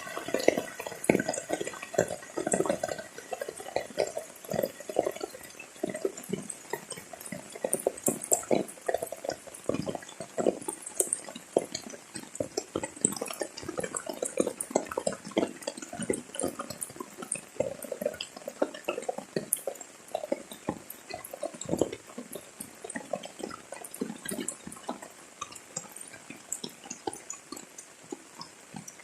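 Heavy rain falling, with dense, irregular drops striking close to the microphone. The drops thin out a little near the end.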